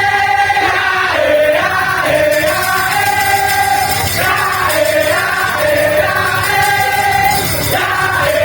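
Madurese daul (tong-tong) music: a percussion ensemble playing a steady beat under a melody of long held notes that step up and down.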